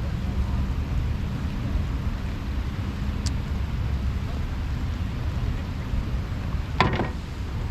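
Steady low rumble of wind buffeting the microphone in the rain, with a faint click about three seconds in and a short cluster of sharp knocks near the end.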